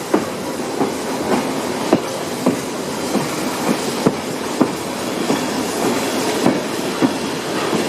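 Heritage train carriage rolling along the track, with a steady rumble and sharp wheel clicks over the rail joints about twice a second.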